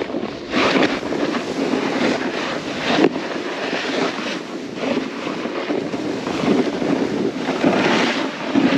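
A snowboard sliding and carving through snow, the board's edge scraping and hissing in a run of turns that swell the rushing sound every second or two, with wind on the microphone.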